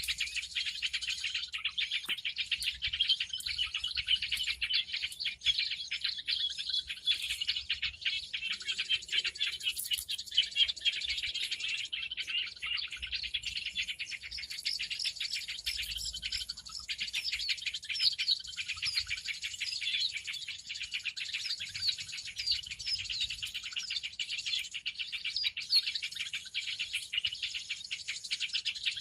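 Bird-lure recording of a noisy flock of small birds chattering: a dense, unbroken chorus of quick high chirps and twitters from many birds at once.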